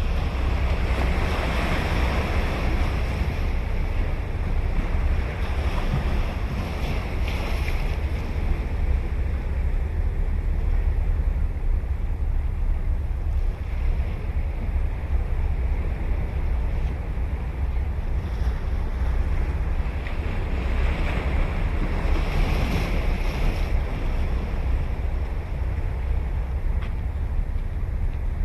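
Ocean surf washing onto a beach, a continuous wash of breaking waves that swells louder twice, near the start and again about three quarters of the way through. A steady low rumble of wind on the microphone runs underneath.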